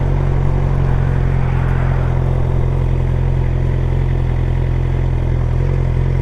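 Motorcycle engine running steadily at one engine speed, heard close up.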